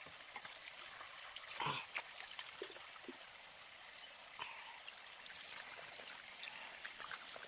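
Faint trickling water, with scattered small clicks and a brief louder sound about two seconds in.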